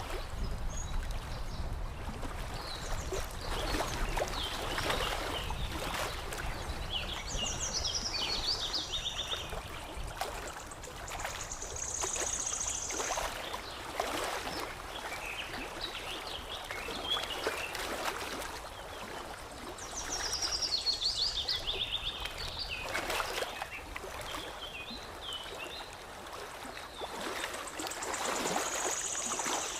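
Water lapping and trickling, with small birds chirping over it. A few of the bird phrases step down quickly in pitch.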